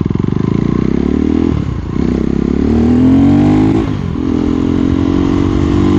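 KTM Duke 390's single-cylinder engine under way: the revs dip briefly, climb, then drop sharply at a gear change about four seconds in and hold steady.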